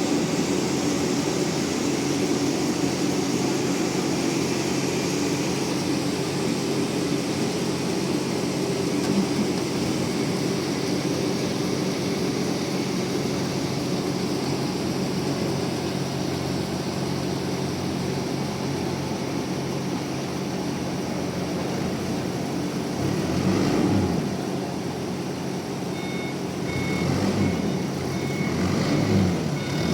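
Heavy sawmill machinery running with a steady drone. Late on, an engine rises and falls and a vehicle's reversing alarm starts beeping at an even pace.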